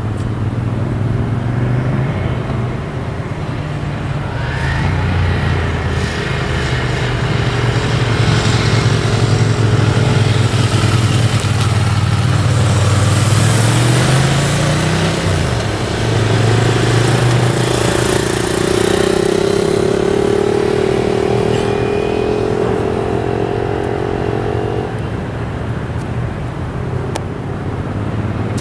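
Motorcycle engines running at low speed, their pitch rising and falling several times as the throttle is opened and closed.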